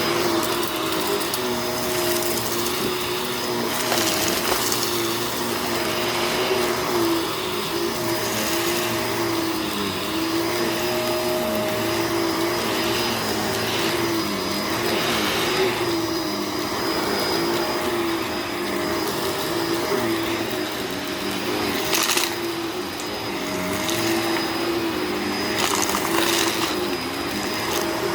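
Upright vacuum cleaner running over a dirty carpet, its motor hum wavering slightly in pitch as it is pushed back and forth. Grit and debris crackle now and then as they are sucked up.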